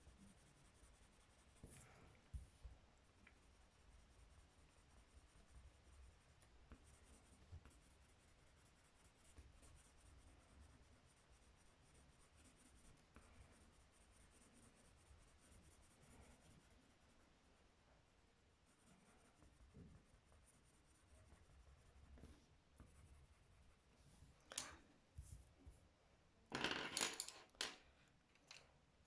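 Faint scratching of a colouring pen or pencil on paper, with a few louder, brief scrapes and rustles of the paper near the end.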